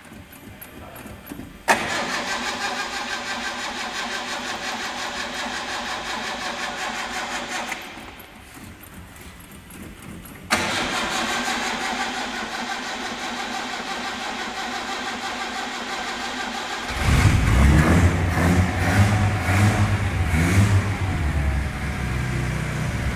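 Datsun 1200's four-cylinder engine being started for the first time: the starter cranks it for several seconds, pauses, and cranks again until the engine catches about two-thirds of the way in. It runs unevenly with a few revs, then settles to a steadier idle.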